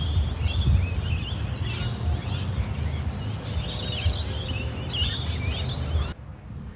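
Several small birds chirping and twittering over a steady low rumble. The sound cuts off about six seconds in to a quieter background with fainter birdsong.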